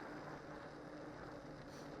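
Steady rolling noise of a cyclocross bike on studded spike tyres going downhill, with a low hum that comes and goes and wind noise on the microphone.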